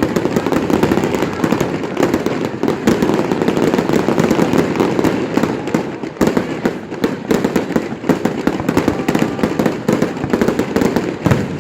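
Fireworks display: a dense, continuous barrage of bangs and crackles, many shots overlapping.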